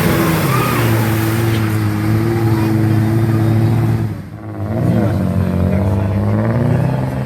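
Off-road 4x4's engine running hard at high, steady revs. About four seconds in the revs drop off briefly, then it climbs back up and holds again.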